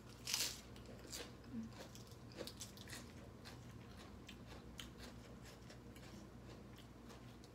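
A crisp bite into raw cucumber about half a second in, then crunchy chewing that grows fainter after a few seconds.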